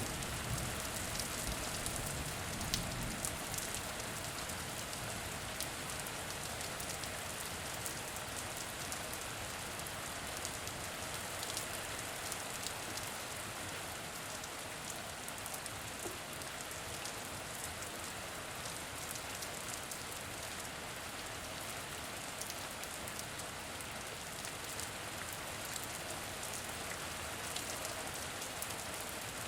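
Steady rain falling on a surface, a dense even hiss with many individual drops ticking through it. A low rumble fades out in the first few seconds.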